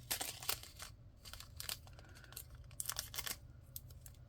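Thin plastic crinkling and rustling, with scattered small clicks, as a small bag or container is handled.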